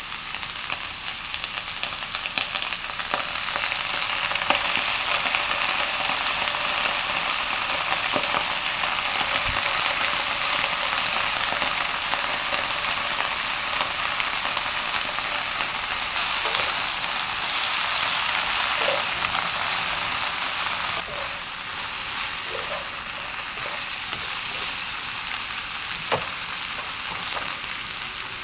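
Napa cabbage, fried tofu and shimeji mushrooms sizzling steadily as they stir-fry in a pan, with a few light knocks of a spoon against the pan. The sizzle eases slightly about two-thirds of the way through.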